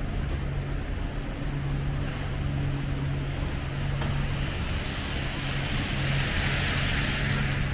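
Snowy city street traffic: a steady low engine hum, with the hiss of a vehicle's tyres on the wet, slushy road swelling in the second half.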